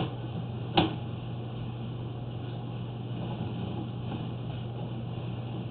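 Steady low electrical or mechanical hum from a sewer inspection camera rig, with two short clicks under a second apart near the start.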